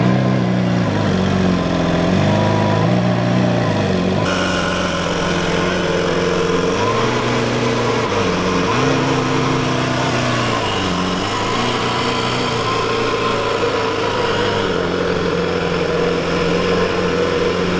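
Lamborghini Centenario's 6.5-litre V12 running at low revs while the car is moved slowly, its pitch rising and falling several times with light throttle.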